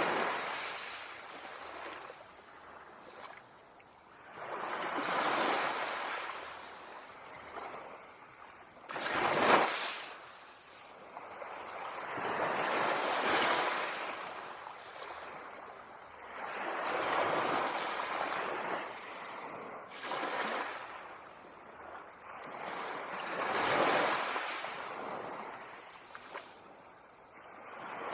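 Ocean waves breaking on a sandy beach, a wave washing in and drawing back about every four seconds. One sharper, louder crash comes about a third of the way through.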